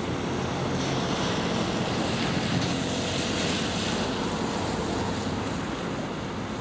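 Rumble of a diesel-hauled passenger train heading away out of sight, a steady wash of noise with a low engine hum that fades away in the first second or two.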